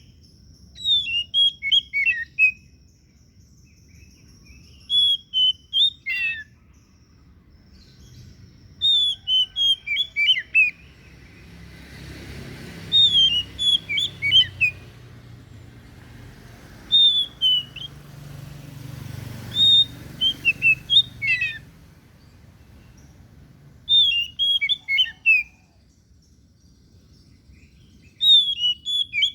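Oriental magpie-robin (white-breasted kacer) singing: short phrases of quick, clear whistled notes sliding up and down, repeated about every four seconds, eight phrases in all.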